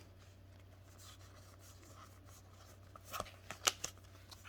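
Pokémon trading cards and their foil booster pack being handled: faint rustling, then a few sharp crinkles and clicks about three seconds in.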